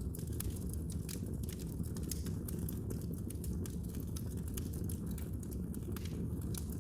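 Wood fire burning in a fireplace, with many sharp, irregular crackles and pops over a steady low rumble of the flames.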